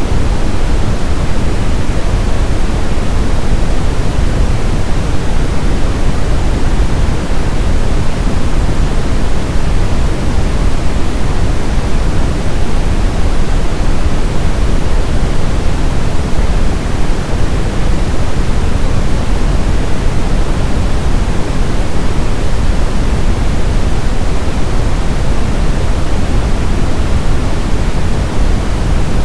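Brown noise: a steady, loud, unchanging deep hiss, strongest in the low end and fading toward the highs, like a distant rumble.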